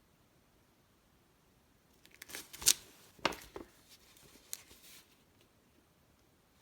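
Pages of a magazine being handled and turned: a few short paper rustles and crinkles, the loudest about two and a half seconds in, with a last light one about four and a half seconds in.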